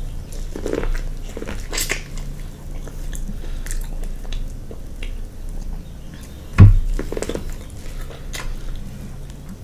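A person chewing and biting food close to the microphone, with scattered wet mouth clicks and crunches. One loud dull thump comes about two-thirds of the way through.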